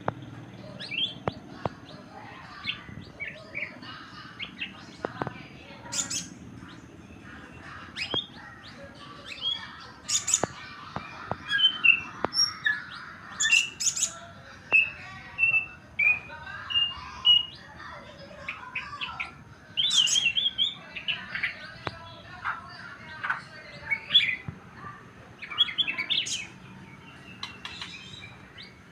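White-rumped shama (murai batu) singing and calling in short, varied phrases of chirps and whistles, with sharp loud notes now and then.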